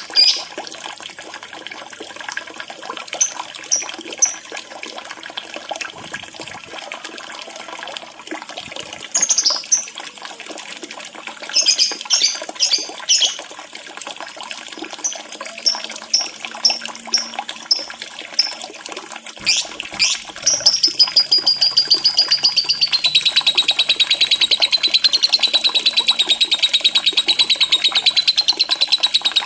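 Lovebird calling over a steady background of running water: groups of short, high chirps, then, about two-thirds of the way in, a long, fast continuous trill of the kind keepers call ngekek.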